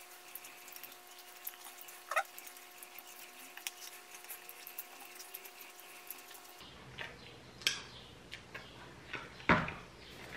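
Faint chewing and mouth smacks of a man eating a slice of pizza, with scattered small clicks over a low steady hum. Near the end comes a single louder knock.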